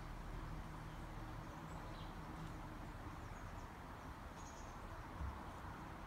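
A few faint, short bird chirps over a steady background hiss and low rumble, with a soft low thump about five seconds in.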